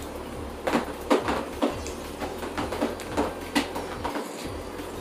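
Close-miked chewing and lip-smacking as a sauce-coated fried chicken wing is eaten, heard as irregular wet clicks and smacks.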